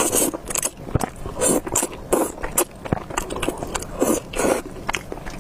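Close-miked eating sounds of spicy beef noodles: an uneven run of wet slurps, chewing and mouth clicks, several a second.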